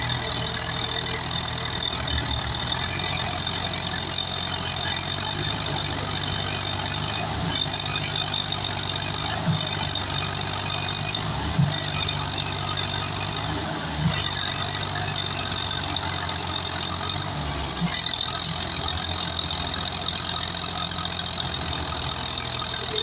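Tractor diesel engines running steadily under load, pulling a trailer that is stuck in the ground, with a couple of short knocks partway through.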